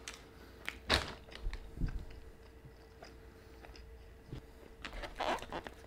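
Close-miked chewing of a mouthful of Korean beef, refried bean and cheese burrito: scattered sharp mouth clicks, loudest about a second in, with another cluster near the end, over a faint steady hum.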